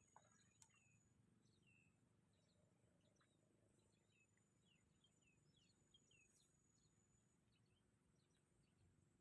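Near silence, with faint short falling chirps of small birds scattered through and a thin steady high insect tone.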